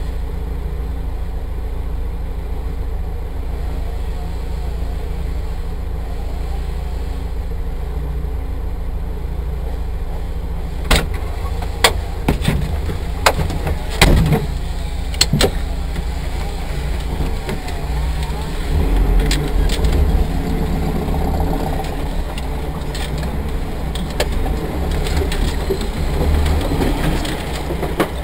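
A vehicle engine idling steadily, heard from inside a cabin, with a handful of sharp knocks and clicks about halfway through and busier, muffled activity toward the end.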